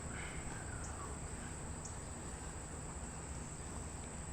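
Quiet outdoor background: a steady high-pitched insect drone, with a couple of faint chirps near the start.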